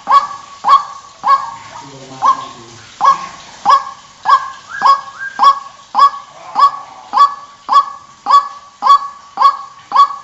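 White-breasted waterhen (ruak-ruak) calling loudly over and over, a little under two harsh calls a second, with a brief break and some lower sounds about two seconds in.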